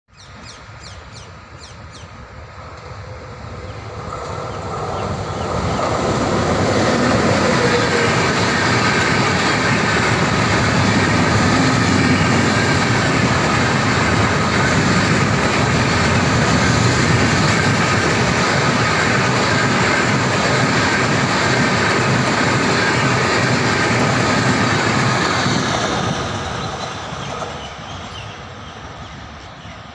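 An express train passing at speed: its noise builds over the first several seconds, stays loud for about twenty seconds as the train goes by, then fades away near the end.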